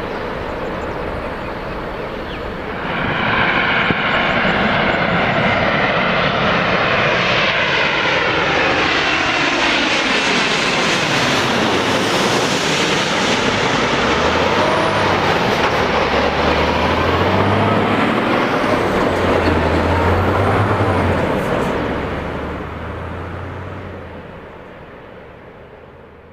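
Jet airliner passing on its landing approach: the engine noise swells about three seconds in, its whining tones fall in pitch as it goes by, and it fades away over the last few seconds.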